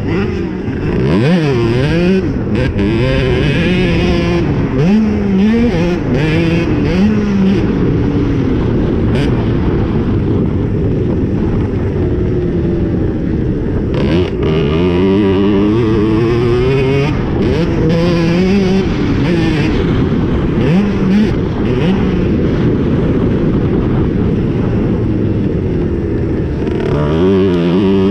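Cobra 65cc two-stroke motocross minibike engine revving hard under load, its pitch climbing and then dropping over and over as it is ridden through the gears.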